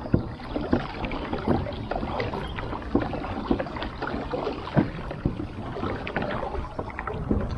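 Brooklyn Kayak PDL 10 pedal-drive kayak under way: water noise along the hull with many small irregular clicks and knocks.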